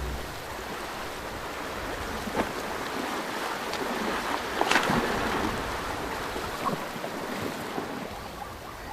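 River water churning and splashing as zebras wade across, with a few sharper splashes; the loudest comes a little before halfway.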